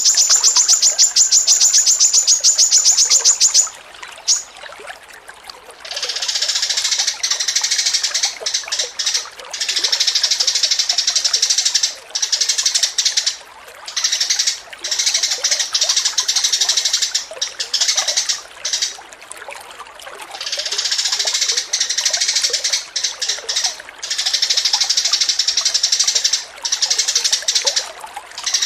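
Songbird singing: a rapid trill of fast-repeated high notes for the first few seconds, then long runs of dense, continuous chattering song broken by short pauses.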